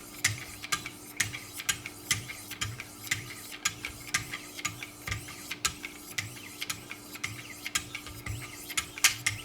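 2,200-grit diamond stones on a Wicked Edge guided sharpening system stroked along a knife blade, giving a steady run of short scraping clicks about two to three times a second.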